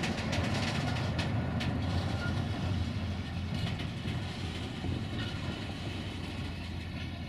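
Diesel train running past with a steady low rumble and a few sharp clicks from the wheels, easing off slightly toward the end.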